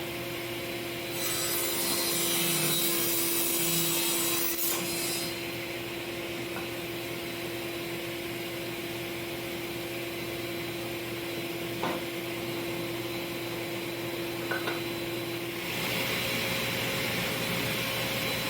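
Table saw ripping along the weathered edge of a cedar-style fence picket, a steady motor hum under the noise of the blade cutting wood, louder about one to five seconds in and again near the end.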